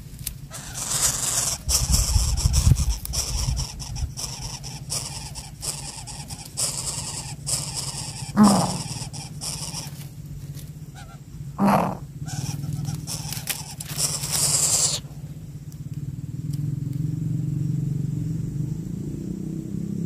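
Birds at a nest of downy nestlings: a couple of short sweeping calls and several bouts of harsh, hissing noise. A steady low hum sets in during the last few seconds.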